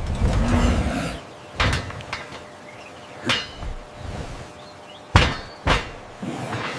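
Animation sound effects: a rushing swell, then four sharp knocks, the last two close together.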